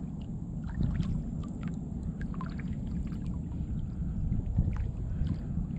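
Kayak paddle dipping slowly through the water, with small drips and splashes, over a low wind rumble on the microphone.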